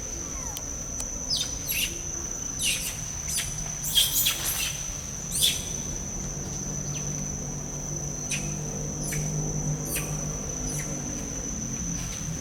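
Birds giving short, high chirps, most densely in the first half, over a steady high-pitched insect drone.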